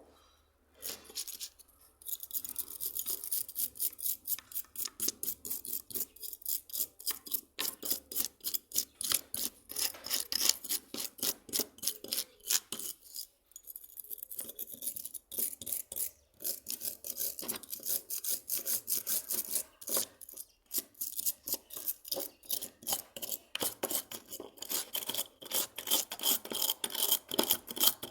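Rapid back-and-forth rasping strokes of hand abrasive work on a hand plane part, two or three strokes a second, starting about two seconds in with brief pauses.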